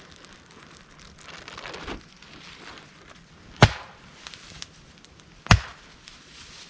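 Two sharp cracks of wood being chopped or broken, about two seconds apart, after a stretch of rustling.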